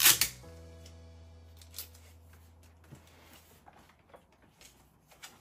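Background music with a steady low note, and in the first moment a short, loud ripping rustle of a protective sticker being peeled off the vacuum cleaner's plastic body, followed by a few faint handling clicks.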